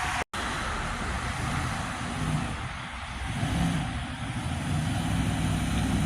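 A vehicle engine runs with a steady low rumble and road noise. At the very start a siren's tone falls away and cuts off sharply.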